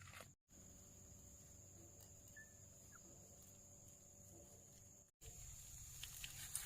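Near silence: faint steady background hiss with a thin high steady tone, and a single brief faint chirp about two and a half seconds in.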